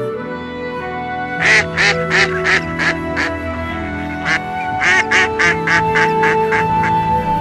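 Soft background music with a bird calling over it in two rapid runs of short notes, about three a second, with a single call between the runs.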